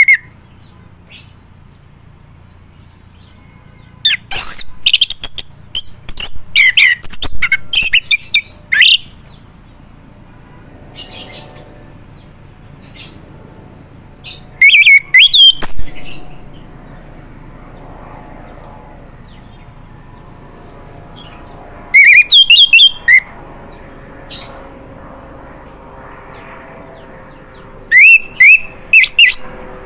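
Male orange-headed thrush singing loud bouts of rapid, varied whistled and chattering notes. There are four bouts: the longest starts about four seconds in, and the others fall near the middle and toward the end.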